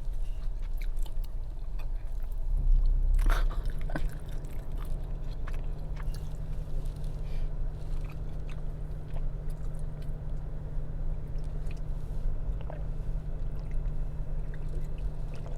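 A person chewing food with small mouth clicks, over a steady low hum that gets a little stronger about three seconds in.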